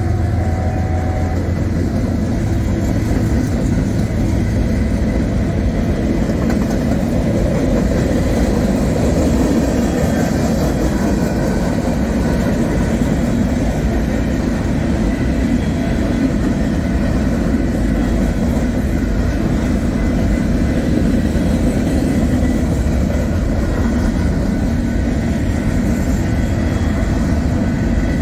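Train rolling past on the track: a steady, unbroken rumble of railcars on the rails, with a faint high ringing coming in partway through.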